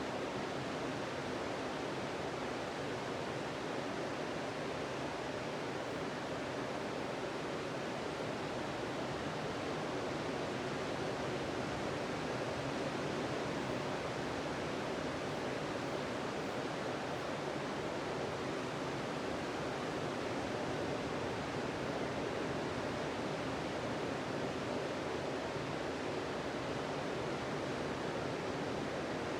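Ocean surf washing onto a beach: a steady, even rush of breaking waves with no single crash standing out.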